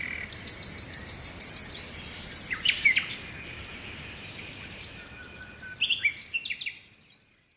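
Songbirds chirping: a fast, even trill of high notes, about seven a second, lasting about two and a half seconds, then scattered short chirps and quick sliding calls. The sound fades out near the end.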